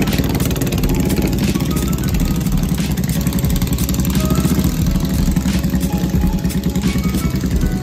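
Custom motorcycle engine running while riding, heard close up, with a rapid, steady low pulsing.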